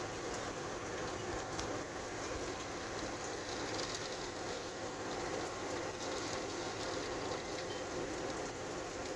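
Heavy rain and gusting wind of a severe thunderstorm, a steady rushing noise without a break.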